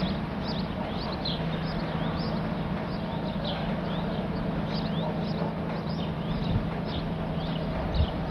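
Small birds chirping repeatedly, short quick high notes several times a second, over a steady low drone.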